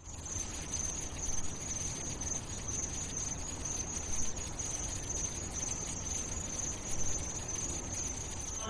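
Steady high-pitched insect chirring, like crickets at night, over a low background rumble of outdoor noise.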